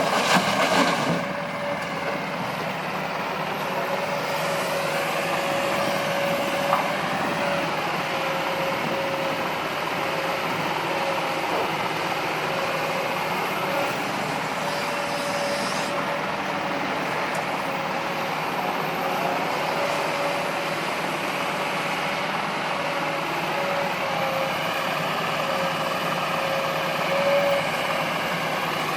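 Diesel engines of an excavator and a dump truck running steadily at work, with a steady whine.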